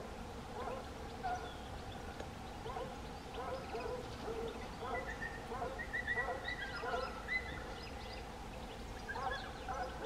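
Birds calling: a string of short, low chirps, a few each second, with fainter higher twittering and a few thin whistled notes in the middle.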